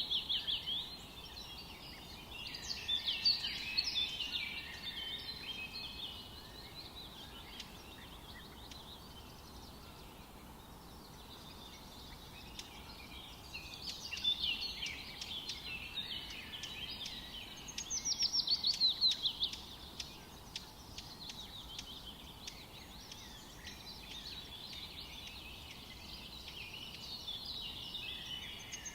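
Songbirds singing in a forest: phrases of rapid, high chirps and trills, some falling in pitch, come and go every few seconds, with the busiest bursts near the start and about two thirds of the way through, over a faint steady background hiss.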